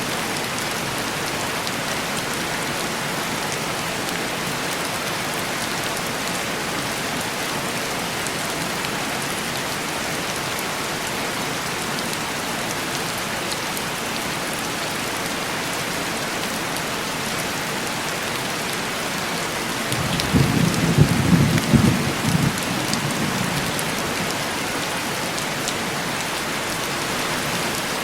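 Steady heavy rain on window glass, with a low rumble of thunder starting about twenty seconds in and lasting a few seconds.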